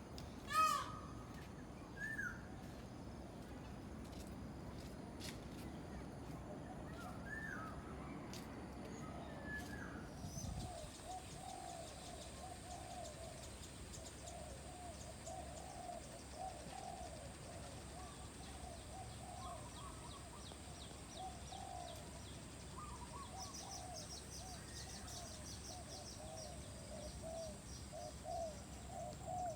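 Birds calling in a bird park aviary: one loud call about half a second in and a few scattered calls. After a change about ten seconds in comes a steady run of low, short calls repeating close together over a faint high steady tone.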